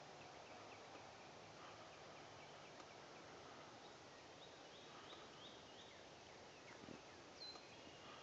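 Near silence of woodland, with faint small-bird chirps: a quick run of about five short falling chirps about halfway through and a single higher whistled note near the end. There is also a soft thump shortly before the whistle.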